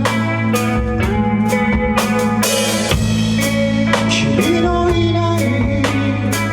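A rock band playing live: drum kit keeping a steady beat with electric guitar and bass, in a blues-rock style.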